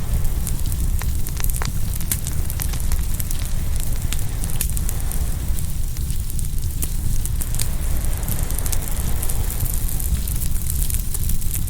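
Open wood fire crackling and popping, with many sharp, irregular snaps over a steady low rumble.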